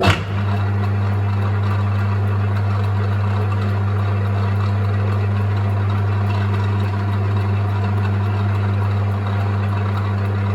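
Metal lathe running, heard close up from the cross slide: a loud steady hum with a constant whirring noise over it, starting abruptly at the outset.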